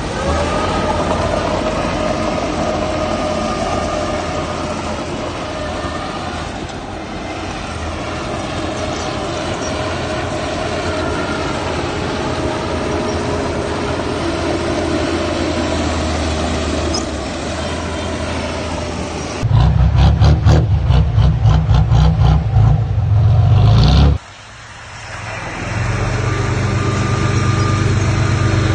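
Heavy diesel earthmoving machinery running steadily, a dump truck or bulldozer engine. Near the end comes a much louder, pulsing stretch of about four seconds that cuts off suddenly, after which the engine sound builds back up.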